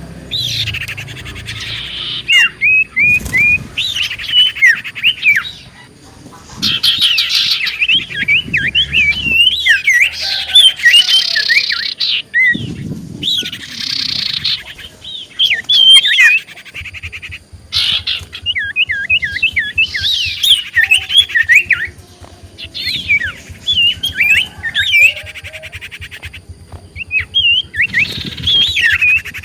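Common iora (cipoh) singing in repeated bursts of rapid chirps and whistled trills, each a second or two long with short gaps between. It is a lure recording of the kind played to draw in wild ioras.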